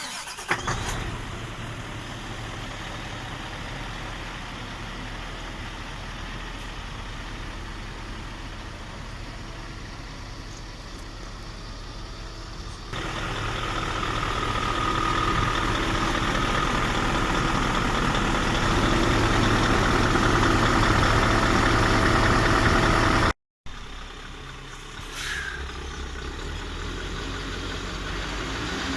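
Scania 770 S truck's V8 diesel engine running, edited together from several takes. It comes in suddenly at the start, gets markedly louder at a cut about 13 seconds in, breaks off for a moment near 23 seconds, then carries on quieter.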